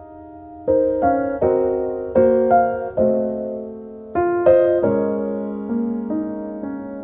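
Background piano music: a slow, gentle melody of single notes and soft chords.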